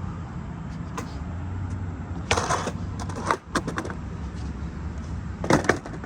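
Skateboard rolling on concrete, its wheels making a steady low rumble, with several sharp clacks and slaps of the board about two, three and a half, and five and a half seconds in.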